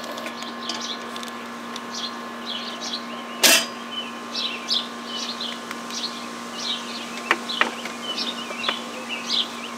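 A songbird singing outdoors, a quick series of short high chirps repeated all through, over a steady low hum. A single sharp click about three and a half seconds in, and a few fainter clicks later.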